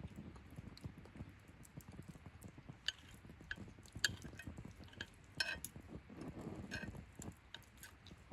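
Light clinks and clicks of metal utensils against camp cookware, with soft handling noise underneath. The clinks are short and ringing, scattered through the middle of the stretch.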